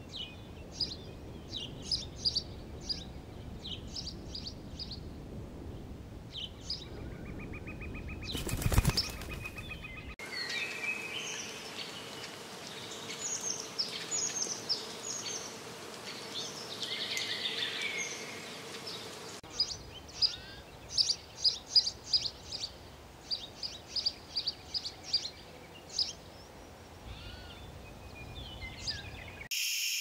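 Small birds chirping in runs of short, high calls over a faint outdoor background, with one brief loud burst of noise about nine seconds in. A steady high hiss, like insects, starts right at the end.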